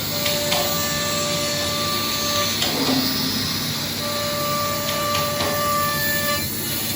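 Delta GLT 2113 CNC milling system running: a steady whine that stops about two and a half seconds in, starts again about a second and a half later and stops near the end, over a constant machine hum with a few sharp clicks.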